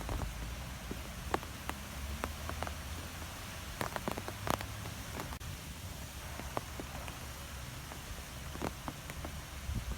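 Wind blowing through trees: a steady rushing hiss with a low rumble underneath, and scattered light ticks and taps throughout, most frequent a little before the middle.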